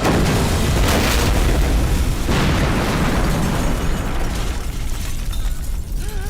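Film sound effects of aerial bombs exploding: a blast right at the start, more blasts about one and two seconds in, and a deep rumble that slowly dies away.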